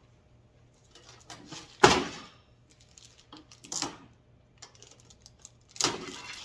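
Tool-rack parts and their plastic packaging being handled. A sharp knock comes about two seconds in, another knock near four seconds, and a clatter with rustling near the end.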